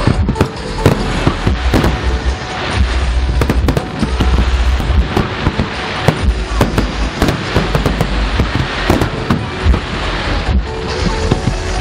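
Aerial fireworks going off in quick succession: many sharp bangs and crackles over low booms, with music playing underneath.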